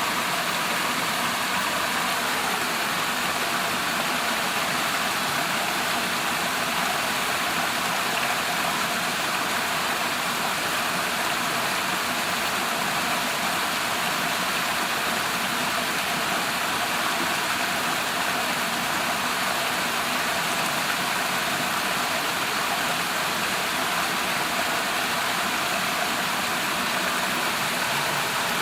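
A seven-tier waterfall about 25 m high, its water falling and splashing in a steady, even rush.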